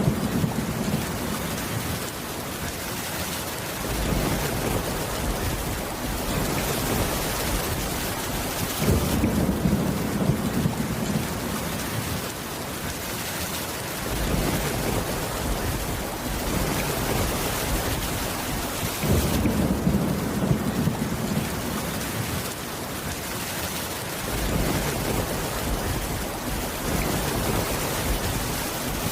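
Steady heavy rain falling on a roof, with low rumbles of thunder rolling in at the start, about ten seconds in and again about twenty seconds in.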